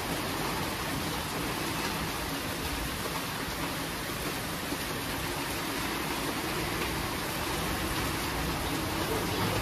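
Steady rain falling, an even, unbroken hiss of downpour.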